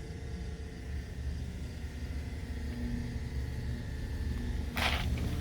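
Steady low outdoor rumble of distant traffic or aircraft, slowly growing a little louder, with a sudden burst of noise about five seconds in.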